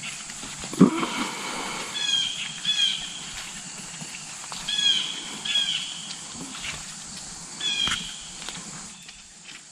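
Short high-pitched animal calls, five in all and mostly in pairs, with a brief low sound about a second in.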